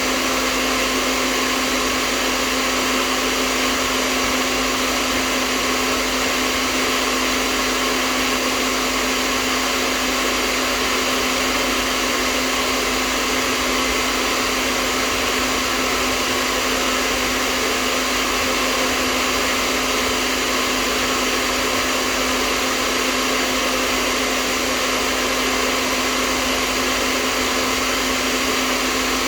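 Hairdryer running steadily with no change, a constant whirring hum under a broad even rush of blown air.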